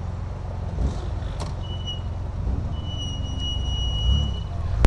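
Triumph Vitesse 2 Litre's straight-six engine running steadily at low parade speed, heard from the open-top cabin. A thin, high, steady whistling tone sounds for about two seconds midway.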